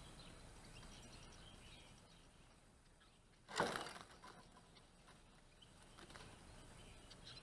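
A brief flutter of a small bird's wings about three and a half seconds in, over a faint outdoor background with a few faint chirps.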